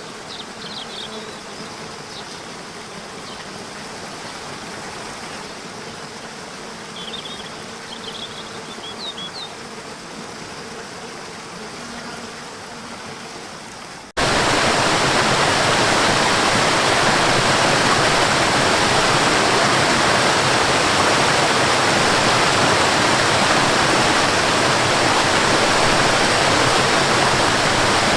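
Softer rushing water with a steady low hum and a few short high chirps, then about halfway an abrupt cut to a loud, steady waterfall rushing.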